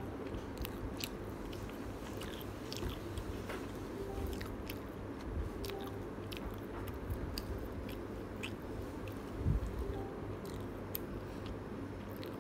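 Close-miked chewing and biting on a spicy chicken drumlet, with scattered small mouth clicks over a steady low hum. A low thump about nine and a half seconds in is the loudest sound.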